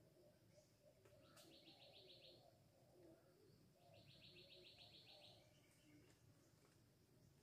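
Faint bird call: two short, fast trills of about a second each, the second coming about two and a half seconds after the first. A faint click comes just before the first trill.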